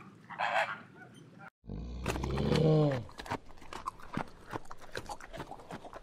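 A flamingo's short nasal honks, then, after a cut, a loud low call that falls in pitch, followed by a run of sharp cracking clicks as a giant panda chews bamboo.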